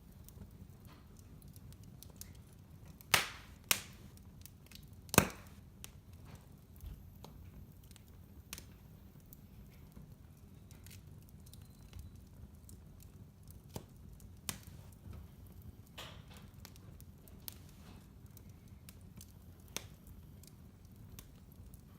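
Wood fire in a fireplace crackling: scattered sharp pops, two loud ones about three and five seconds in and smaller ones throughout, over a steady low rumble.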